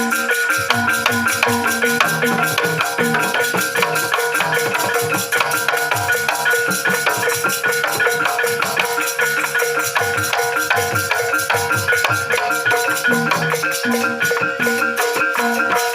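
Banyumasan gending (Javanese gamelan-style music) played by the ensemble without singing: ringing struck tuned percussion over a fast, even run of strokes, with hand-drum beats coming and going.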